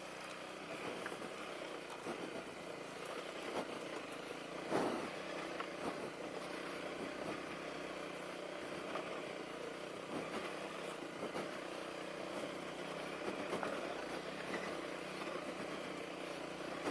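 Honda CRF250L's single-cylinder engine running steadily at low trail speed over rough ground, with scattered knocks and clatter. The loudest knock comes about five seconds in.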